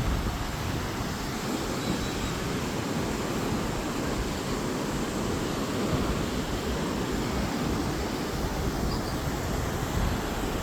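Sea surf washing onto a beach, a steady rushing noise, with wind rumbling on the microphone.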